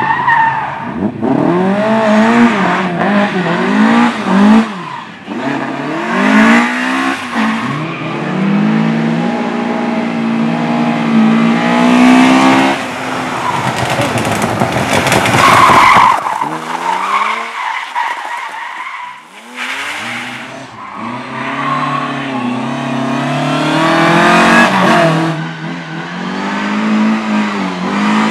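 Slalom race car driven hard: its engine revs up and drops again and again with gear changes and braking, and its tyres squeal through the turns. The sound fades briefly past the middle, then builds again.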